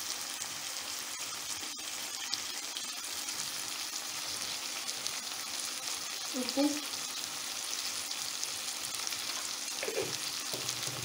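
Chicken pieces frying in oil and masala in a kadai, a steady sizzle. There is a brief short sound about halfway through.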